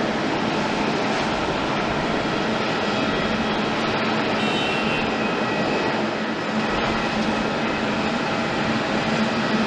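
Boeing 777-300ER's GE90 jet engines running at a steady, loud level, with a constant low hum beneath the rushing noise.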